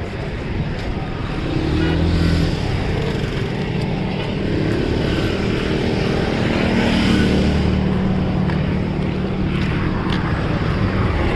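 Road traffic: a motor vehicle engine running steadily over a constant haze of road noise, its pitch shifting a little now and then.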